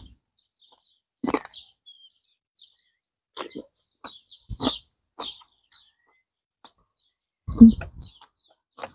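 Close-miked chewing and mouth sounds of a person eating: separate crunchy bites and smacks about every second or two, the loudest near the end. Faint bird chirps sound in the background.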